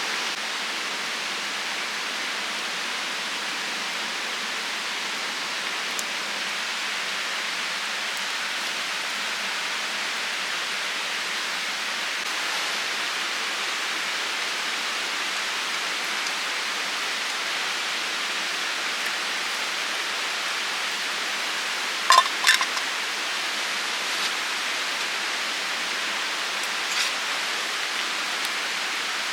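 Steady rushing noise, with a pair of sharp clicks about three quarters of the way through and a fainter one shortly after.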